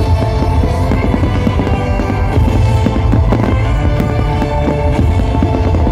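Loud music with a heavy bass, with fireworks launching and bursting through it as a scatter of sharp bangs and crackles.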